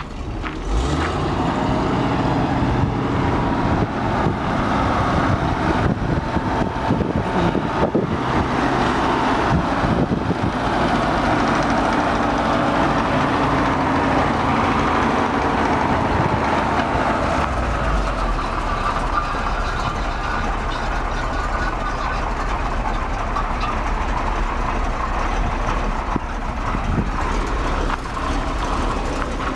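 1971 Chevrolet C-60 grain truck's engine running steadily. It comes up sharply about half a second in, and its low rumble deepens from about 18 seconds in.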